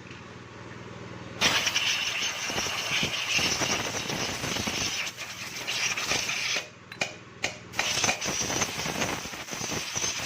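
A motorcycle engine running, coming in abruptly about a second and a half in, with a strong hiss above it; the sound drops away briefly twice about two-thirds of the way through.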